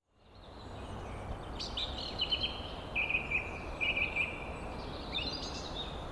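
Birds chirping and singing in short repeated high notes over a steady outdoor hiss.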